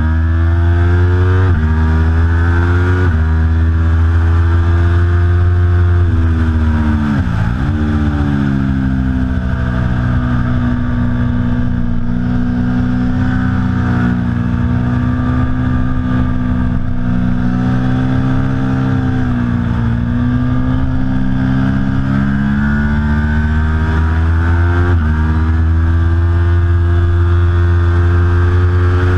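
Aprilia Tuono V4 Factory's V4 engine at racing speed on track: revs climb and drop suddenly at each upshift, fall steeply under braking and pick up again, then hold high through long stretches.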